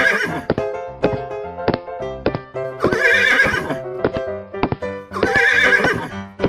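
Upbeat background music with a steady beat, over which a horse whinny sound effect sounds three times: at the start, about three seconds in, and near the end.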